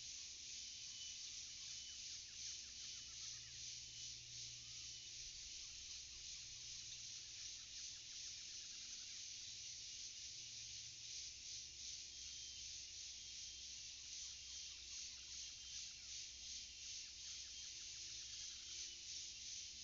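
Forest insects, crickets or cicadas, keeping up a steady high pulsing chorus, with faint bird calls now and then.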